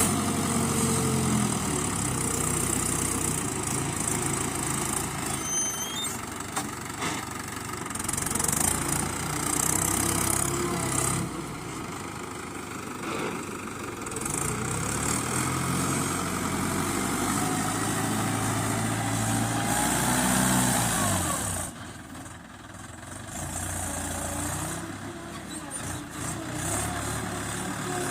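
Tractor diesel engines running, revving up and falling back several times, with the sound dropping lower about twenty-two seconds in.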